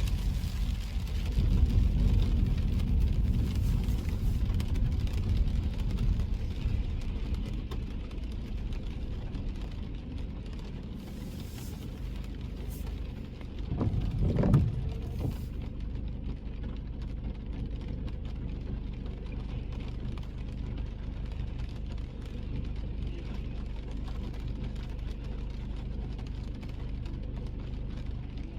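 Car driving on the road: a steady low rumble of engine and tyres, heavier for the first several seconds and then easing off, with a brief louder swell about halfway through.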